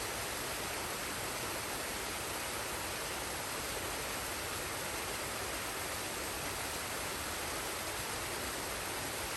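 Waterfall and stream water rushing with a steady, even hiss.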